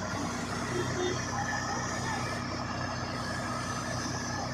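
Vehicle engines running steadily, a low even drone with no change in pitch.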